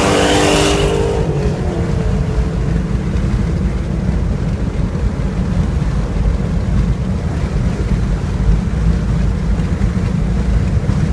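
1997 Mustang Cobra's 4.6-litre DOHC V8 through a Stainless Steel Systems exhaust: the engine note drops away about a second in as the throttle closes, leaving a steady, loud low rumble of cruising with road and wind noise.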